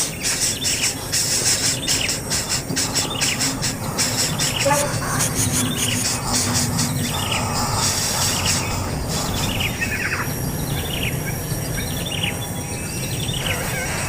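Baby bird chirping: a long run of short calls, each falling in pitch.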